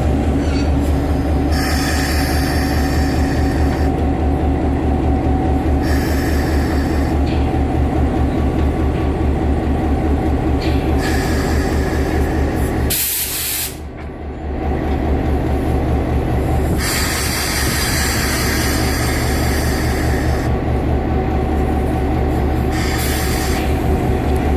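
EMD GP7 diesel-electric locomotive running at low speed with a steady low throb, broken by about six bursts of air hissing from its air brakes, the sharpest about thirteen seconds in.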